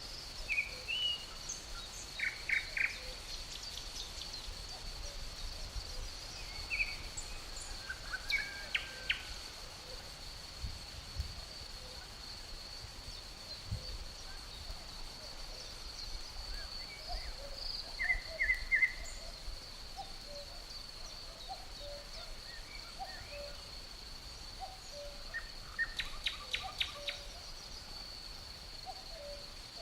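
Woodland birdsong: several birds giving scattered chirps and short bursts of quick repeated notes, over a steady high trill of crickets.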